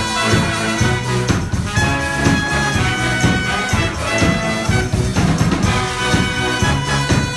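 A brass band playing live: trumpets and trombones holding notes over a pulsing low bass line and drums with a steady beat.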